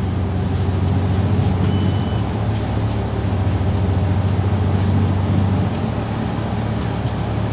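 MAZ 203.065 city bus running, heard from inside: a steady low engine and road drone, with a faint high whine that drops and rises again twice.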